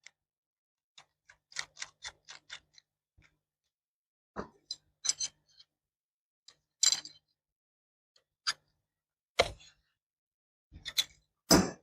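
Scattered clicks and light metal knocks of hand tools and small fittings being handled during fuel-line plumbing: a quick run of about six clicks early, then single sharper knocks, the loudest near the end.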